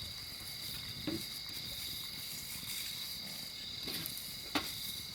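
Insects chirring in a steady, high, continuous drone, with a sharp click about a second in and another near the end.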